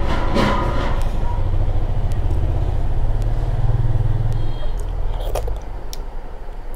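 Close-miked chewing and mouth sounds of someone eating rice and curry by hand, over a steady low rumble that fades out about five and a half seconds in, with a few small clicks.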